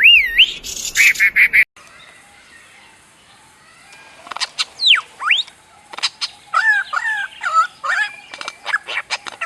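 Songbirds singing in two recordings joined together. First a repeated, looping whistled phrase cuts off after about a second and a half. Then, after a quiet gap, a varied song of falling whistles, warbled chirps and sharp clicks begins.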